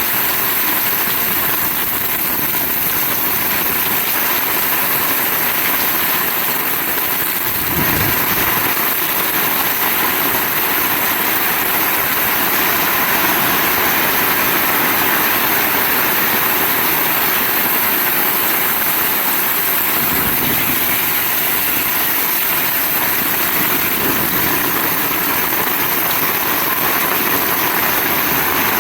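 Heavy rain falling steadily, a dense even hiss, with two brief low thumps.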